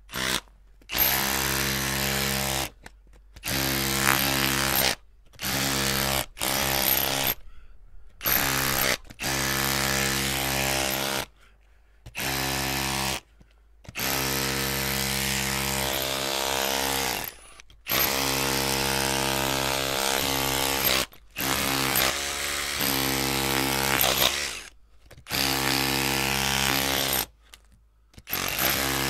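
Electric drill running in repeated bursts of about half a second to three seconds each, its motor switched on and off with short pauses between runs.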